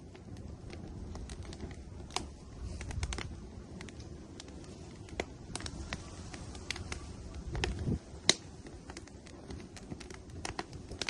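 Firewood burning in an outdoor grill, crackling with irregular sharp pops and snaps, the loudest about eight seconds in. Underneath is a low rumble that swells twice.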